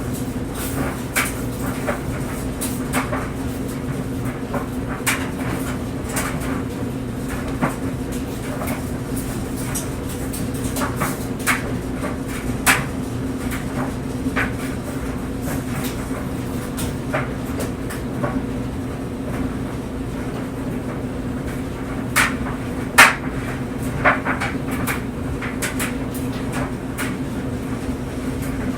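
Clothes dryer running with a steady motor hum while the load tumbles in the drum, with irregular soft knocks and thuds as items drop, a few louder knocks near the end.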